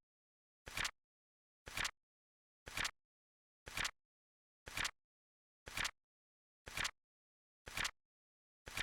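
Flip clock sound effect: a short flip click once a second, evenly spaced, nine in all, each rising in two quick steps.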